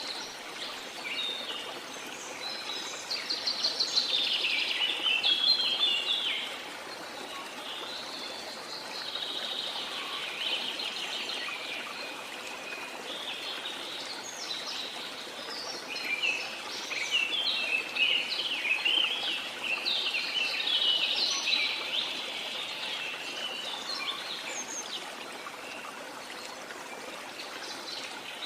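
Small songbirds chirping and twittering in rapid bursts over a steady wash of water. The birdsong is busiest a few seconds in and again past the middle.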